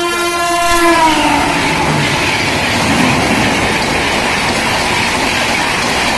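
Gatimaan Express running through a station at speed. The electric locomotive's horn sounds and drops in pitch as the engine passes about a second in. Then comes a steady loud rush of wind and wheel noise as the coaches go by.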